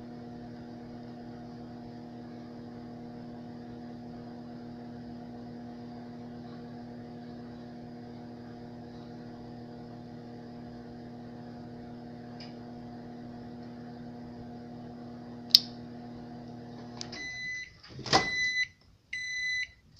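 Microwave oven running with a steady hum while heating a Peeps marshmallow chick. A sharp click comes about 15 seconds in. The hum stops shortly after, and the microwave gives a series of high beeps, with a thump among them.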